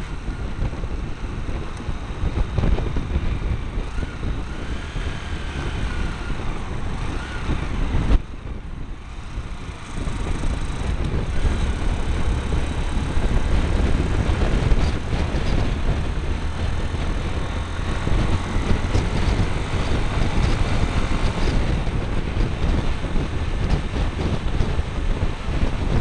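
Motorbike engine running while riding, heard from a camera strapped to the bike, with wind buffeting the microphone. About eight seconds in the sound drops suddenly quieter for a couple of seconds, then comes back louder.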